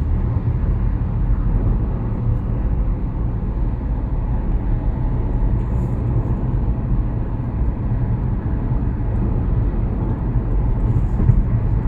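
Road noise heard inside a moving Toyota Prius's cabin with the air conditioning off: a steady low drone of tyres on the road.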